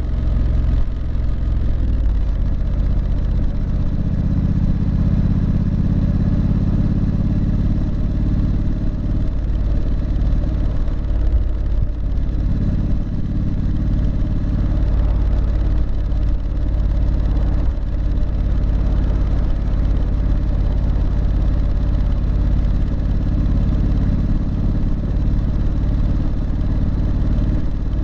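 Triumph Street Scrambler's 900 cc parallel-twin engine and exhaust running under way, its pitch rising and falling a few times as the throttle is worked, with brief drops in level about twelve and seventeen seconds in.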